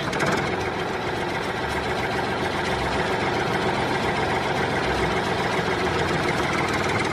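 An engine or motor running steadily at an even pace, starting abruptly and holding a constant level throughout.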